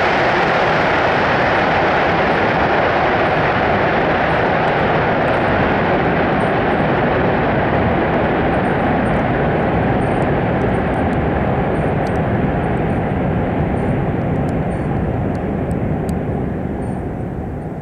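ICE high-speed train running away through a tunnel: a loud, steady rush of wheel and air noise that slowly fades, the hiss thinning first and the level falling near the end.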